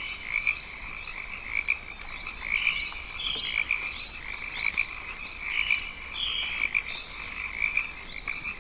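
Rainforest chorus of calling frogs: a steady run of pulsed calls, about two a second, with many short, high, rising chirps scattered over it.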